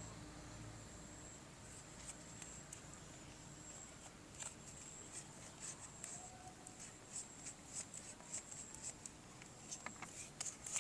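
Faint handling of plastic toy parts and packaging: light clicks and small rustles, sparse at first and coming more often from about four seconds in.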